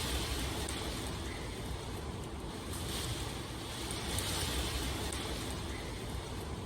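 Steady rain: a continuous hiss of rainfall that swells and eases every few seconds, with a low rumble underneath.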